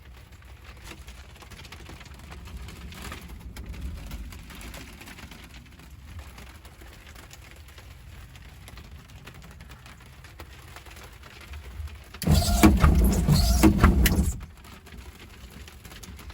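Light rain with a low, steady rumble. About twelve seconds in, a loud burst of noise across all pitches lasts about two seconds and cuts off suddenly.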